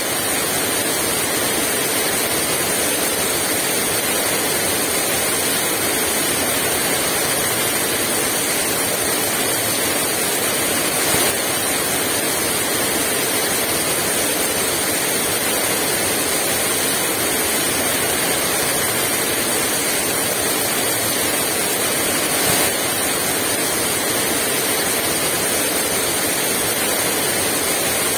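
Heavy rain falling steadily: a dense, even hiss of the downpour.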